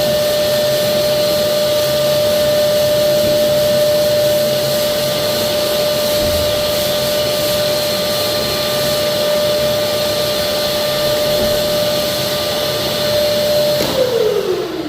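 Electric drywall sander running steadily on a plasterboard joint, a constant motor whine over a hiss of sanding, winding down near the end as it is switched off.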